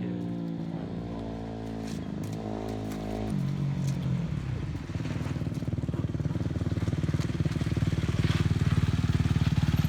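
Dirt bike engine running, its pitch stepping up and down over the first few seconds. From about halfway it settles into a rapid firing beat that grows steadily louder toward the end.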